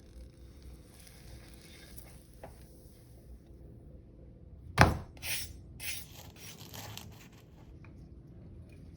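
A Crunchwrap Supreme crunching: one loud, sharp crunch about five seconds in, followed by several smaller crunches over the next two seconds.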